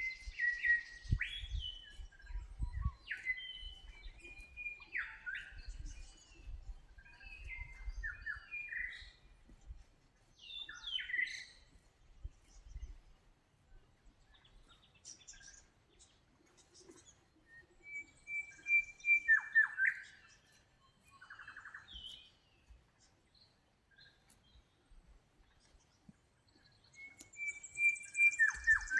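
Wild birds singing in short, whistled phrases that slide up and down in pitch, several in quick succession at first, then a quieter gap, then more phrases near the middle and again near the end. A low rumble runs under the first half.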